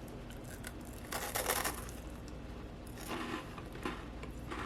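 Crunching as a freeze-dried Twix bar is bitten and chewed: one crisp crunch about a second in, then two softer crunches near the end.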